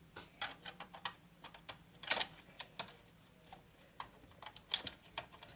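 Plastic toy-brick parts of a model ship clicking and knocking irregularly as they are handled, with the loudest clicks about two seconds in and again near the end.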